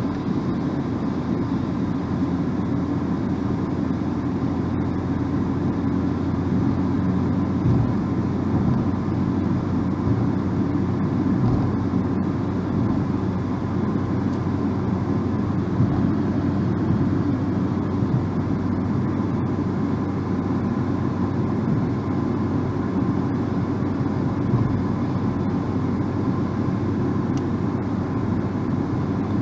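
Steady low rumble of road and engine noise from a car driving, heard from inside the cabin.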